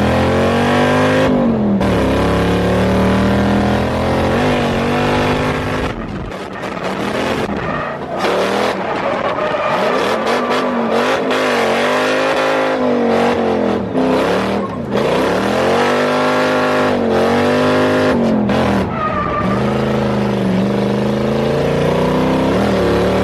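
Lexus LS400's 1UZ V8 engine revving hard and falling off again and again through a drift run, with tyres skidding and squealing at times.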